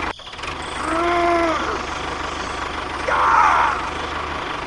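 An engine idling with a steady low hum. Two short higher-pitched tones sound over it, about a second in and again about three seconds in.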